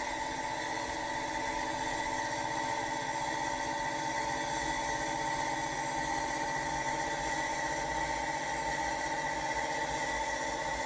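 Accurascale Class 55 Deltic OO gauge model locomotive running on the layout: a steady engine-like hum with a high whine that holds one pitch throughout.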